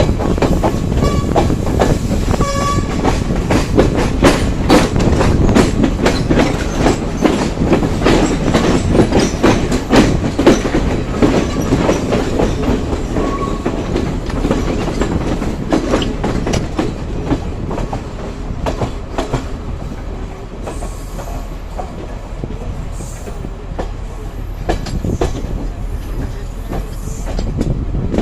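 Passenger train running on the rails, its wheels clattering over rail joints and points in a dense run of knocks, with a few brief squeals near the start. The clatter thins out and the running becomes quieter and steadier in the second half.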